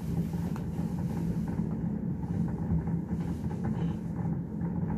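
Distant fireworks: a continuous low rumble of overlapping booms, with a few faint pops over it.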